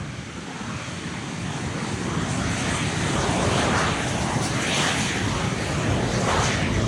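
Aircraft engine noise of a plane passing overhead, a steady rumble that grows louder through the first few seconds and then holds.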